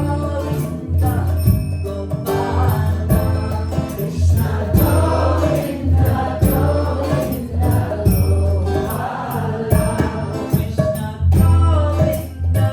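Live kirtan music: voices singing a Kṛṣṇa devotional chant over a steady low drone and a regular percussion beat.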